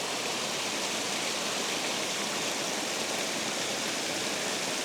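Water rushing steadily through a spillway, an even, unbroken hiss.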